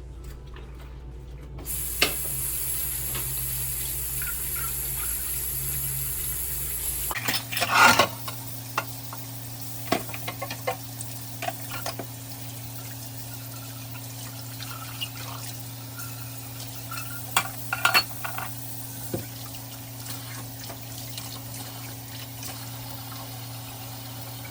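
Kitchen sink washing-up: a tap runs for a few seconds, then dishes and utensils clatter on and off over a steady low hum.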